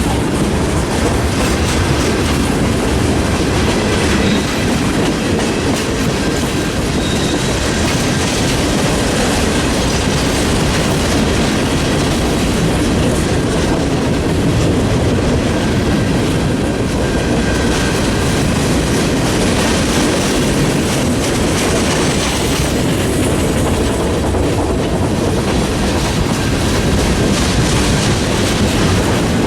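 Freight train cars rolling past at track speed: a steady rumble and clatter of steel wheels on the rails, with a faint wheel squeal now and then.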